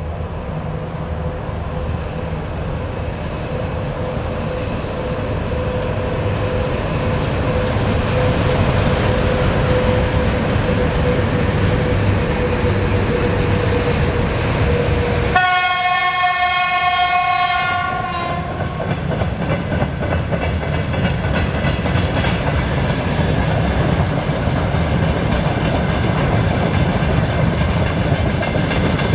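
VL80S electric locomotive hauling a freight train, its running noise building as it approaches. About halfway through it sounds one horn blast lasting about two and a half seconds, and then the freight wagons roll past with a rhythmic clickety-clack of wheels over the rail joints.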